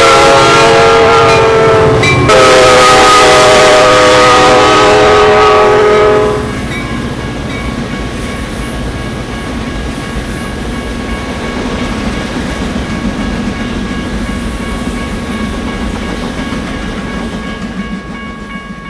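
Norfolk Southern locomotive's chime horn blowing a loud multi-note chord, broken briefly about two seconds in, that stops about six seconds in. After that the train rumbles past the crossing, with a faint steady high ringing tone above the rumble.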